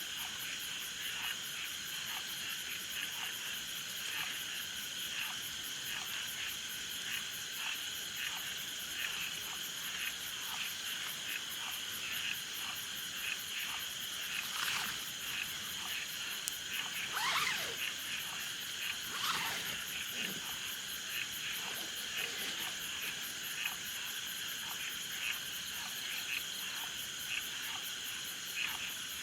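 A chorus of frogs calling in a steady repeating rhythm over a continuous high insect trill. Around the middle, a few louder calls sweep down in pitch.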